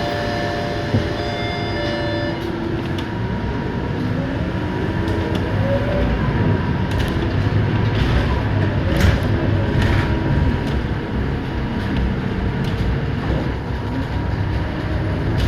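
Interior of a Scania K230UB city bus on the move: its five-cylinder diesel engine and drivetrain run under a steady rumble, with the engine note rising a few times as the bus pulls along, and body panels rattling. A steady tone stops about two seconds in.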